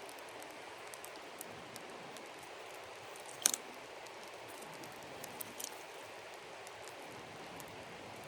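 Campfire crackling: a steady hiss with scattered small pops and one louder crack about three and a half seconds in.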